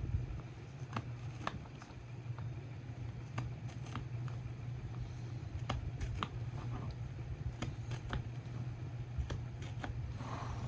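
Scattered light clicks and taps from small craft storage pieces and labels being handled, over a steady low hum.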